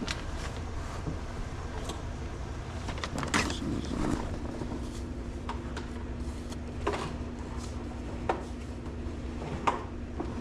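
A few sharp clicks and knocks, most of them in the second half, over a steady low hum.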